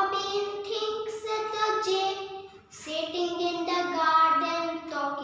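A young child singing in a high, sing-song voice, holding long notes.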